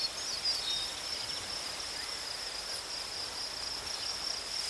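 Steady high-pitched cricket trill, with a few faint short chirps in the first second.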